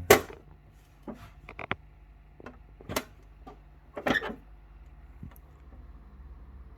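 Light knocks and clicks, about six spread over several seconds, from items and plastic fittings being handled inside a fridge, over a faint steady low hum.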